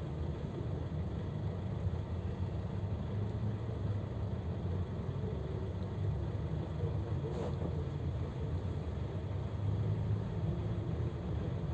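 LUIDOR 2250DS bus driving, its engine and road noise a steady low rumble heard from inside the passenger cabin, with a faint click about seven and a half seconds in.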